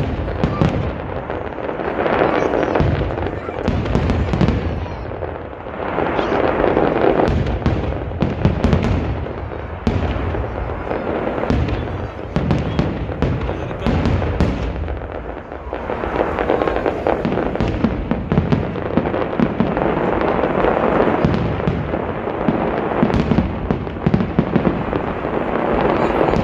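Fireworks display: a continuous run of sharp bangs and crackling bursts, swelling and easing every few seconds.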